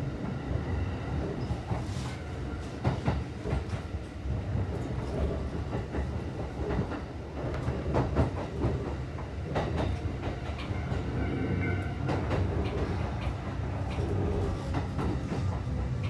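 Interior running sound of a Kintetsu 2050 series commuter train in motion: a steady low rumble with wheels clicking and knocking over the rails, heard from inside the passenger car.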